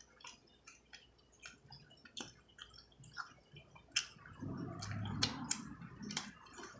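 Close-up eating sounds: scattered wet mouth clicks and lip smacks, then a couple of seconds of chewing from about four seconds in.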